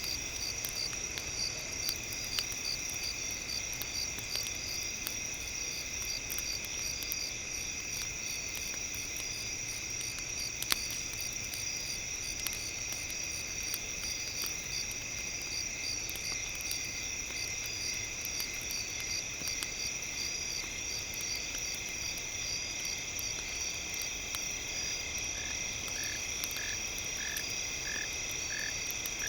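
Night ambience of insects trilling steadily, with a frog croaking in an even rhythm of about two croaks a second near the end. Scattered small crackles of a campfire run underneath.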